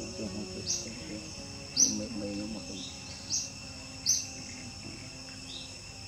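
A bird repeating a short, sharp high call every second or so over a steady high-pitched insect drone.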